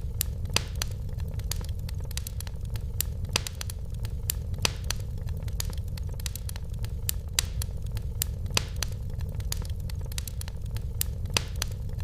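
Wood fire burning in a fireplace, crackling with frequent irregular snaps and pops over a steady low rumble.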